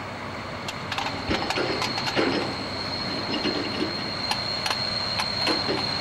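Passenger train with a DR class 228 diesel locomotive moving slowly through the station: wheels click over rail joints and points. From about a second in, a steady high-pitched metallic squeal comes from the running gear.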